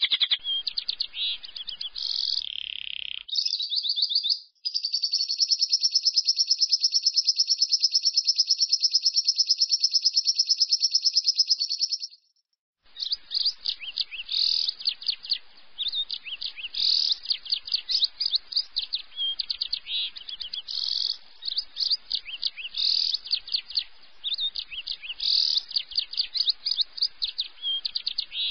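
Lovebird ngekek: a high, rapid, unbroken trill held for about seven seconds, then after a brief cut, fast chattering broken by sharp chirps.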